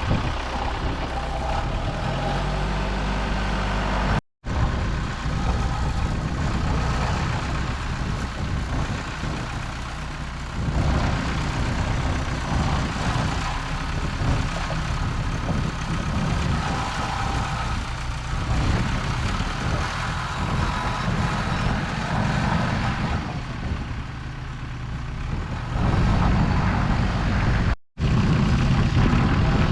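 Diesel engine of heavy earth-moving equipment running under work as dirt is moved. It cuts out twice for a split second and grows louder in the last few seconds.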